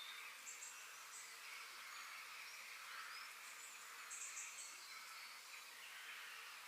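Faint outdoor nature ambience: small birds give short high chirps twice, over a steady soft hiss of distant birds or insects.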